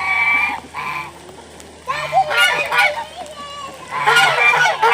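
Geese honking: two short honks, then bursts of several overlapping honks about two seconds in and again about four seconds in.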